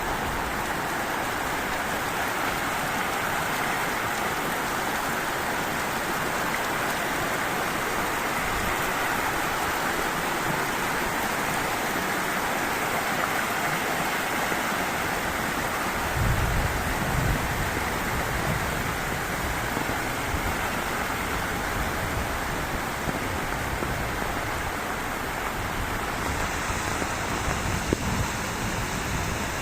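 Heavy rain falling steadily: a dense, even hiss. About halfway through, a low rumble comes in and keeps returning.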